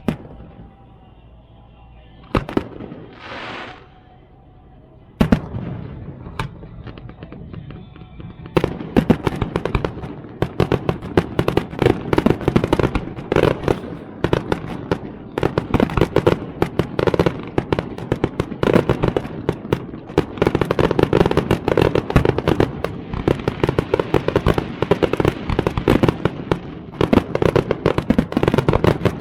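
Fireworks: a single bang, then a hiss lasting about a second and a half, another bang about five seconds in, and from about nine seconds on a dense, continuous barrage of rapid bangs and crackles.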